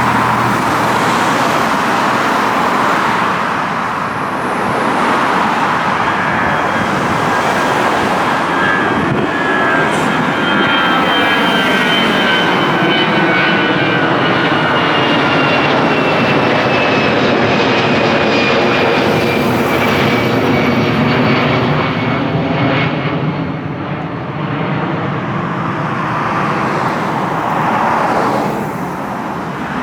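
Wide-body jet airliner climbing out after takeoff and passing low overhead: a continuous jet engine roar with a high whine that slowly falls in pitch as it goes by, easing off in the last few seconds.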